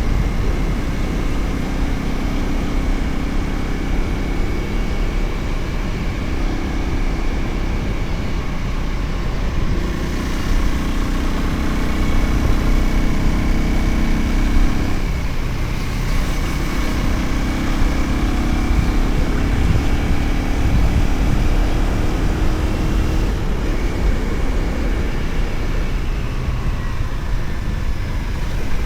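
Motorcycle engine running while riding on the road, its note steady but shifting in pitch a few times, dropping once about halfway through, over a low rumble of wind on the microphone.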